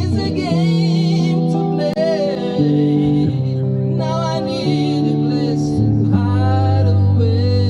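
A song sung with guitar accompaniment and steady low sustained notes underneath, the words sung in made-up pseudo-English.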